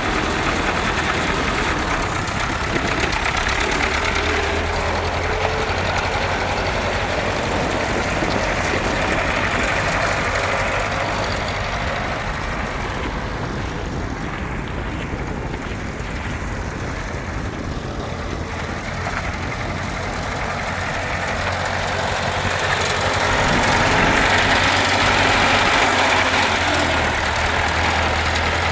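Ford 8N tractor's four-cylinder flathead engine running at a steady idle, dipping somewhat in the middle and growing louder near the end.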